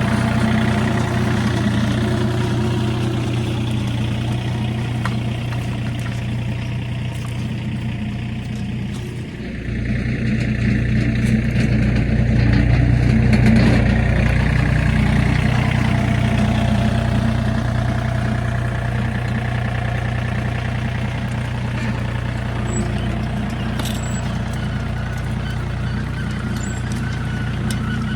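Tractor engine running just after start-up. About ten seconds in it grows louder and deeper, then runs on steadily.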